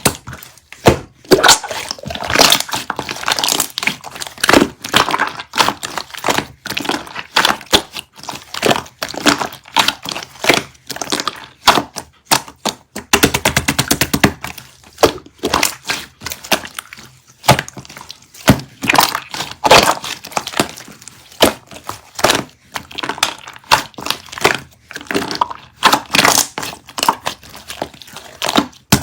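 Hands squeezing and pressing a bouncy 'tangle jjondeugi' squishy toy, making dense runs of sharp crackles and clicks with short pauses between the squeezes.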